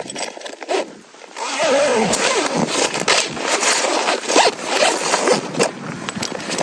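A zipper being pulled, a long continuous rasp that starts about a second and a half in.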